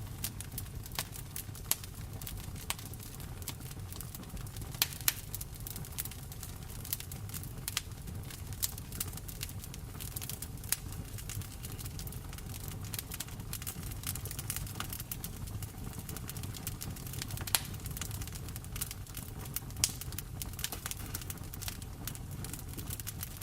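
Wood fire in a fireplace crackling, with frequent sharp pops over a steady low rumble and the hiss of rain.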